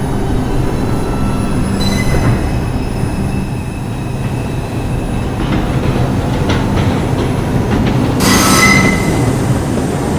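R142-series New York City subway train running, with a steady low hum from the car and brief high-pitched wheel squeals, a short one about two seconds in and a louder one near the end.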